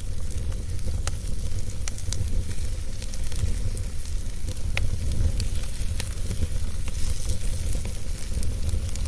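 Wood fire burning in a fireplace: scattered sharp crackles and pops over a steady low rumble and hiss.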